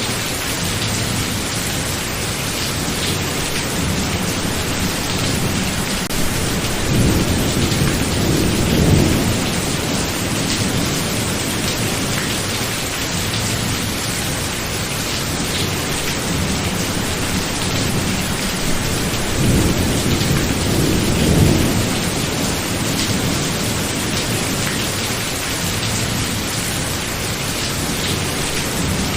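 Steady heavy rain with two low rolls of thunder, one starting about seven seconds in and another about twenty seconds in, each rumbling for a few seconds.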